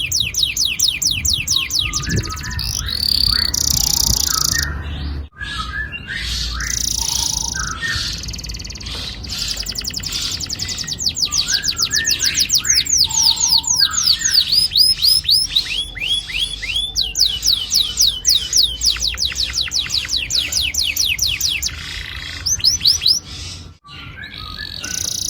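Domestic canary singing long rolling trills of rapidly repeated high notes, broken by shorter chirping phrases; the song cuts out briefly twice.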